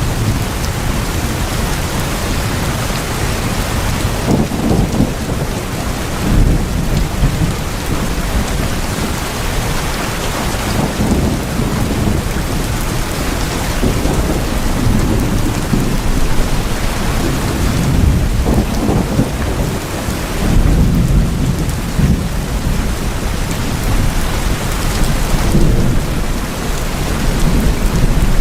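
Heavy rain drumming steadily on tin houses, a dense patter with low rumbles that swell and fade every few seconds.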